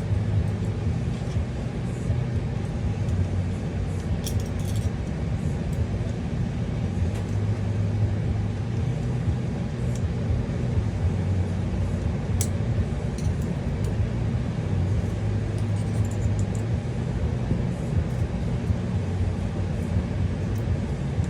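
Steady low background rumble with a few faint light clicks from small parts being handled, about four, ten and twelve seconds in.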